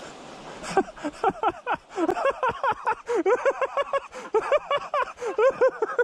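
A bird calling loudly in a rapid run of rising-and-falling chortling notes, several a second, starting just under a second in and growing louder.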